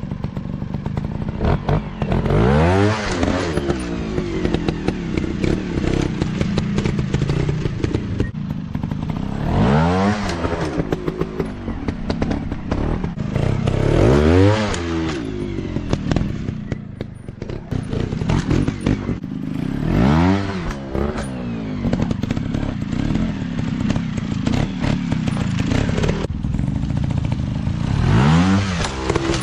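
Dirt bike engines running, their pitch rising and falling about five times as the bikes rev up and back off or ride past.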